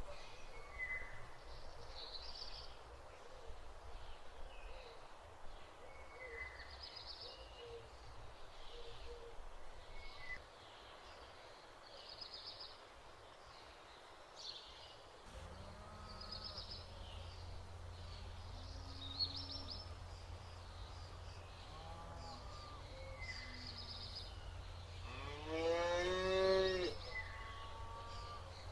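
Cow mooing: one loud, long moo near the end, with a few fainter moos from further off before it. Small birds chirp again and again throughout, and a low steady rumble sets in about halfway.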